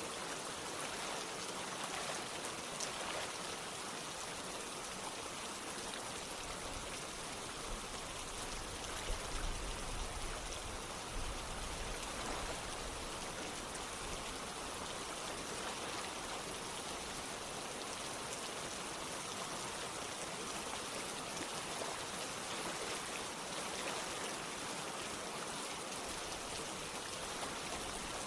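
Steady rain together with running water, an even hiss with scattered drop ticks. A faint low rumble comes in for a few seconds near the middle.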